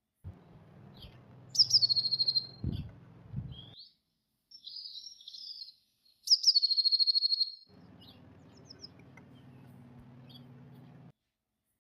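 A blue tit singing twice: each song is a high, thin note dropping into a fast, ringing trill, with a few softer calls in between. Under the first song there is a low electrical hum with a couple of dull thumps, and the hum returns later on.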